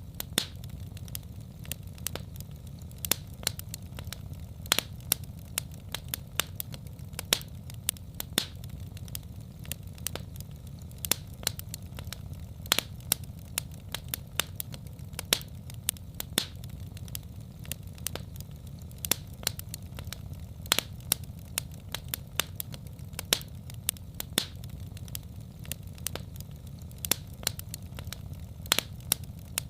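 Wood fire crackling in a fireplace: irregular sharp pops and snaps several times a second over a steady low rumble of the burning.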